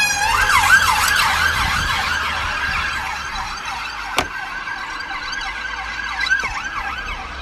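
Emergency vehicle siren sounding a fast rising-and-falling yelp, a few sweeps a second, over a steady tone. There is a single sharp click about four seconds in.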